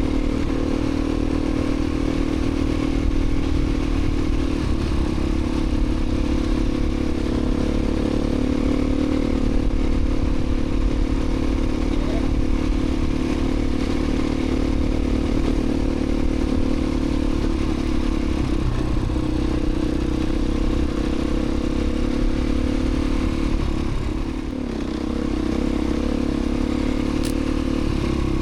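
Beta 350 RRS dual-sport motorcycle's single-cylinder four-stroke engine running at a steady pace under way, easing off briefly near the end and then picking up again.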